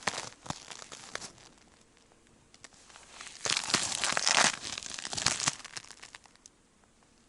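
Crunching and rustling noise in two bouts: a short crackly stretch at the start, then, about three and a half seconds in, a louder one lasting about three seconds.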